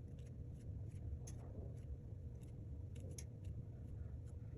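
Steady low hum with a faint steady tone over it, and scattered light clicks and taps from small parts being handled at a repair bench.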